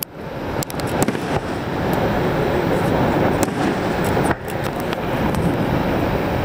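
Fireworks display: scattered sharp pops and crackles from bursting shells over a loud, steady rushing background noise.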